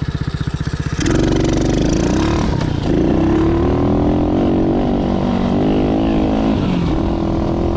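Dirt bike engine running: pulsing at low revs for about a second, then accelerating with its pitch climbing, dipping briefly near the third second as if on a gear change, and pulling again.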